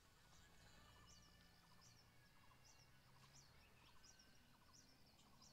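Near silence outdoors, with faint high bird chirps repeating about twice a second.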